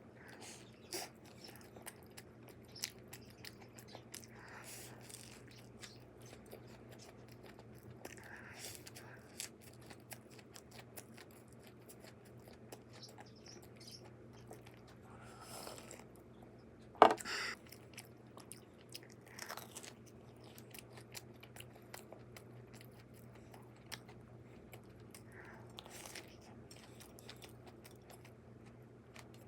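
A person biting and chewing crunchy pan-fried Monte Cristo toast, with many small crisp clicks. There is one louder sharp crunch about 17 seconds in, over a faint steady low hum.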